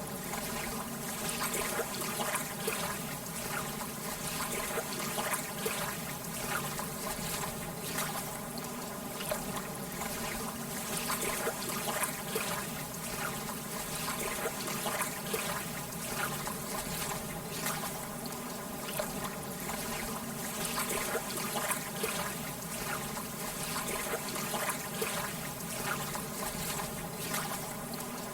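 Lake water lapping gently at the shore: a steady wash of small waves with many quick little splashes and trickles.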